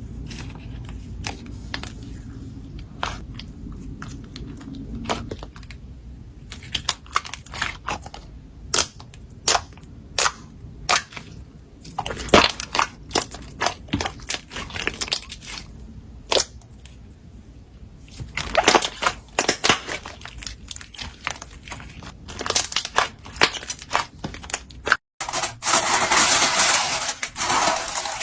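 Slime being pressed and poked, giving irregular sharp pops and crackles that come thicker in the second half. After a cut about 25 seconds in, a dense, continuous crunchy crackle.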